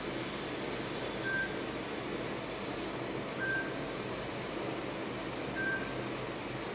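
A steady rumbling hiss with a short, high electronic beep repeating about every two seconds.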